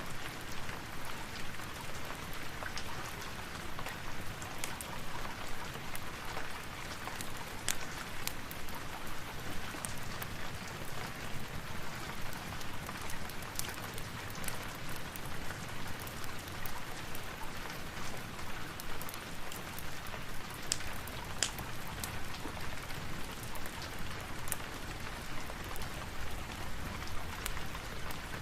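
Steady rain falling, with scattered sharp ticks and pops through it.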